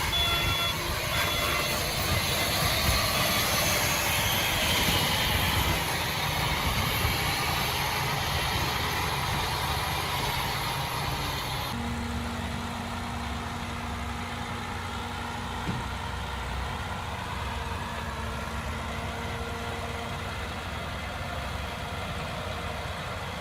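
Heavy diesel construction machinery running steadily. About halfway through, the sound changes abruptly: the upper hiss drops away and a steady low hum sets in.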